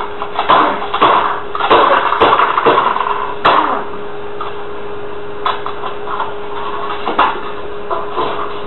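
Repeated hard blows as an office computer is smashed at a desk, about two a second for the first three and a half seconds. After that a steady hum carries on with two more single knocks.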